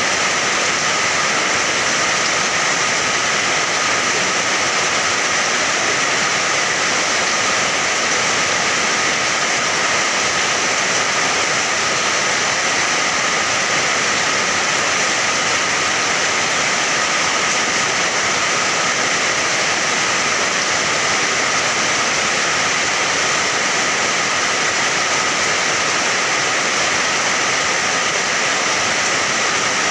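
Steady rain falling as an even, unbroken hiss, with no separate drops or thunder standing out.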